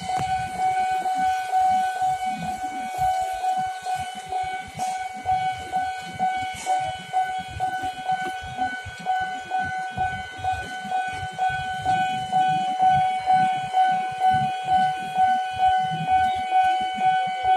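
Railway level-crossing warning alarm sounding: a steady electronic tone held throughout, over a low pulsing about twice a second.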